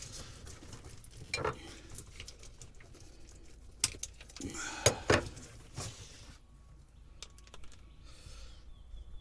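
Small hard parts being handled while old boat wiring is pulled out: irregular clicks and rattles, with a few sharper knocks about a second and a half in and around four to five seconds in.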